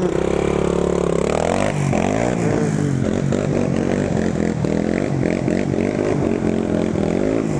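Small ATV engine revving hard under load while ploughing through a mud hole: held at high revs at first, then surging up and down over and over as the wheels bite and slip in the rutted mud.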